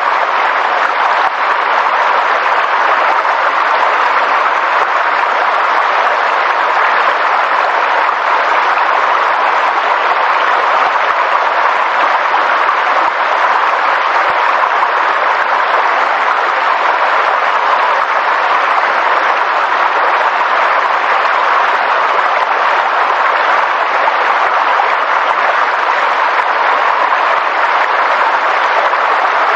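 Steady rushing water noise, even and unbroken, with no pitch or rhythm.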